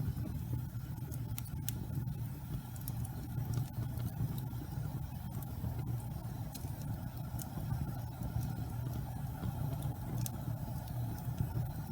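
Wood fire burning in a fireplace: a steady low rumble of flames with sparse, irregular crackles and pops of burning wood.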